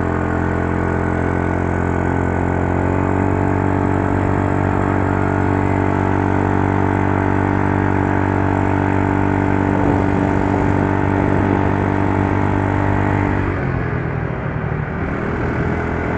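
Yamaha Mio Soul scooter's single-cylinder four-stroke engine running at a steady speed under way. About thirteen seconds in, the note drops and turns rougher as the throttle eases off.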